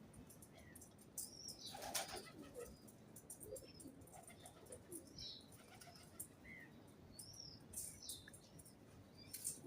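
Birds flapping their wings in a few short bursts, the strongest about 2 s in and near the end, with scattered faint high chirps.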